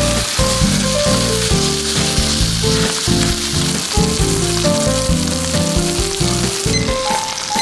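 Meat sizzling as it sears in a hot pan, a dense steady hiss over background music. The sizzle drops away near the end.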